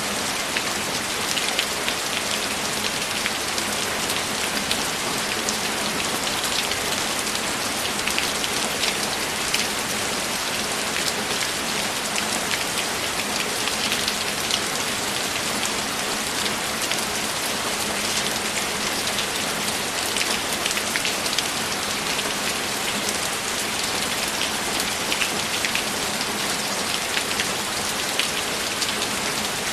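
Steady rain falling on a surface, an even hiss full of fine drop ticks that never lets up.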